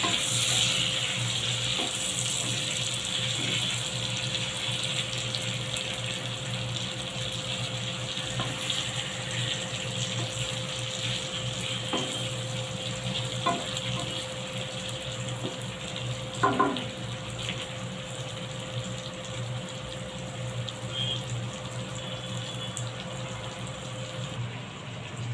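Parwal (pointed gourd) pieces sizzling in hot oil in a karai: a steady hiss that slowly fades. A few short knocks of the spatula against the pan come in the second half.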